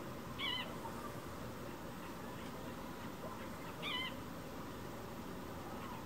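A kingbird giving two short, burry, wavering calls, about three and a half seconds apart, over faint background hiss.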